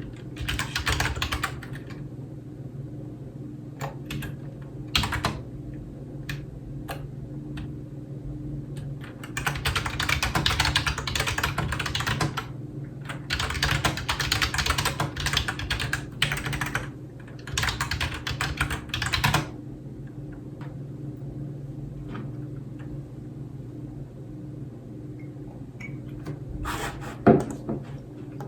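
Typing on a computer keyboard: runs of rapid keystrokes broken by pauses with a few single key taps. A steady low hum sits underneath.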